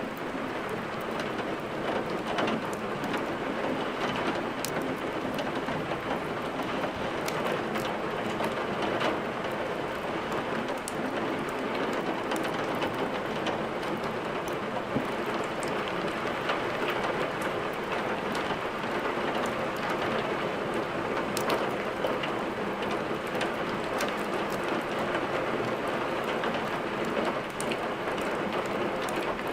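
Steady heavy rain, with scattered sharp crackles from a wood fire in a fireplace.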